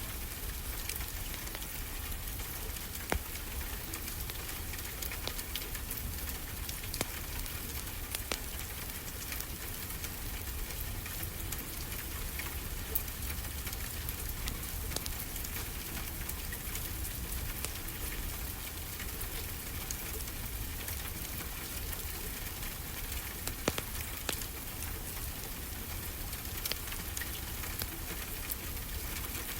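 Wood fire crackling with frequent small sharp pops, over a steady hiss and low rumble of gentle ocean waves.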